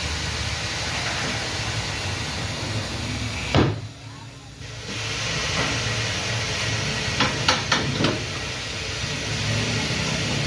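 Steady workshop background noise, with one sharp knock about three and a half seconds in and a quick run of three or four sharp clicks or knocks around seven to eight seconds in, typical of tools and parts being handled during a motorcycle tyre change.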